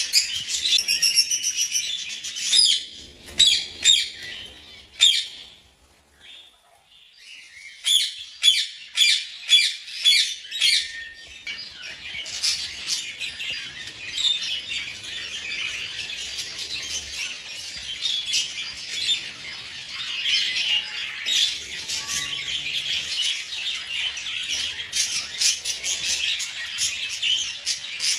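A flock of budgies chattering and squawking. The calls thin to a brief lull about six seconds in, then come back as a run of sharp calls that settles into steady chatter.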